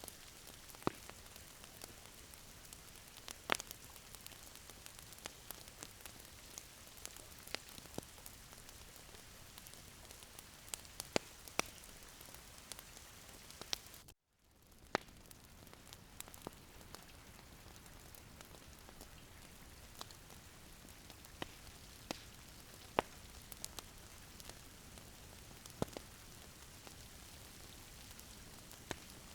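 Wood fire crackling in a fireplace: a steady soft hiss with irregular sharp pops and snaps. The sound cuts out for a moment about halfway through, then resumes.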